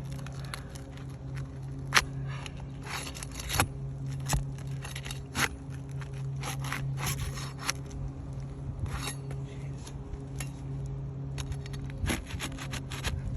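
Irregular scraping and rubbing with sharp clicks and cracks as roof shingles are pried up and worked loose by hand, over a steady low hum.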